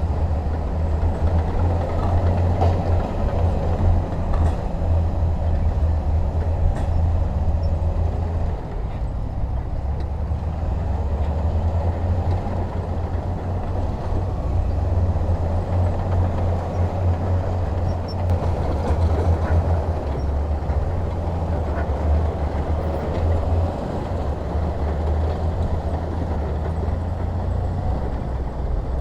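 Heavy diesel machinery engine running steadily under load, a deep continuous rumble.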